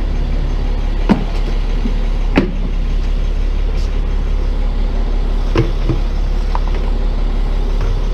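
Tow truck's engine idling steadily, with three short knocks over it, a little after one second, after two seconds and after five and a half seconds.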